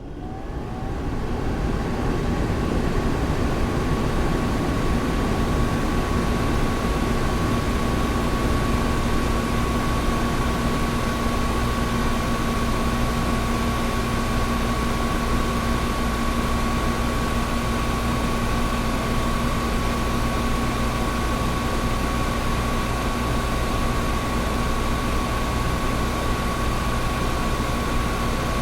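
Air conditioner running steadily: an even rush of air with a low hum and a higher steady tone, rising in from silence over the first second or so.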